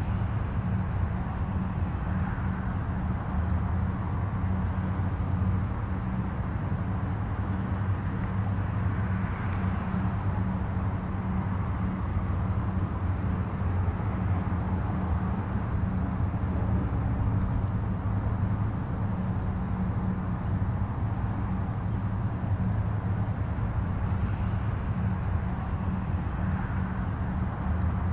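Distant highway traffic: a steady low rumble of tyres and engines that swells gently a few times as vehicles pass.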